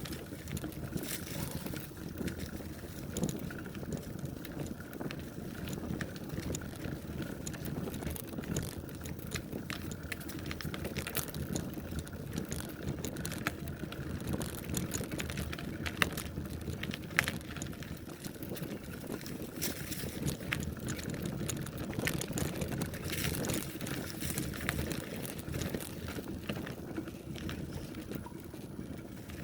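Bicycle rolling along a trail: a steady low rumble from the tyres and ride, with frequent small clicks and rattles, and two sharper knocks about halfway through.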